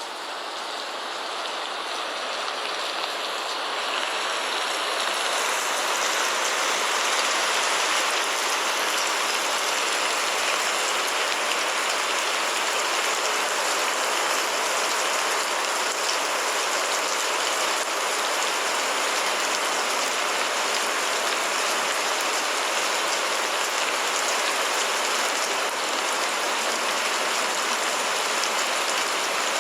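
Steady rain, a dense even hiss of falling water that swells up over the first five seconds or so and then holds level.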